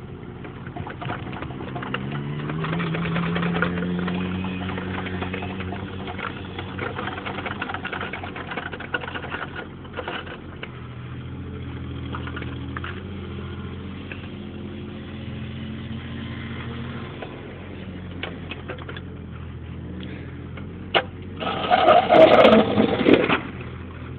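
Caterpillar mini excavator's diesel engine running, its note rising and falling as the hydraulics take load. Near the end there is a louder, harsher burst lasting about two seconds.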